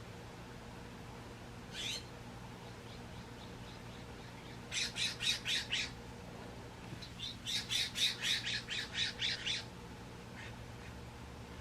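Male acorn woodpecker calling: one harsh call about two seconds in, then two quick runs of harsh repeated notes, about six and then about ten in a row, over a faint steady hum.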